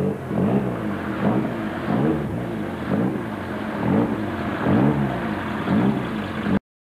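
A motor vehicle engine revving up and down over and over, its pitch rising and falling about once or twice a second, then cutting off suddenly near the end.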